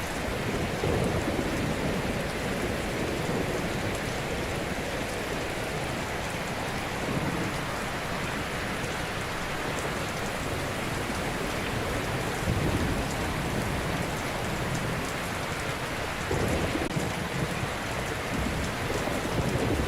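Ocean surf: a steady wash of waves, with a deeper swell as a wave breaks several times.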